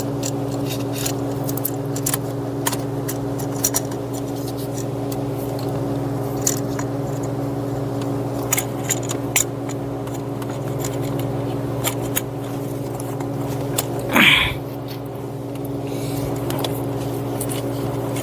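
Light clicks and taps of plastic parts being handled as a new EVAP purge valve is fitted, over a steady machine hum. About fourteen seconds in, a short squeal falls sharply in pitch.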